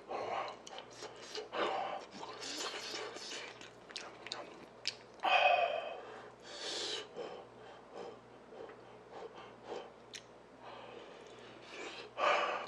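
A man chewing mouthfuls of fried rice with seaweed, with wet mouth sounds, small spoon clicks and breaths out through an open mouth; a louder breathy vocal sound comes about five seconds in.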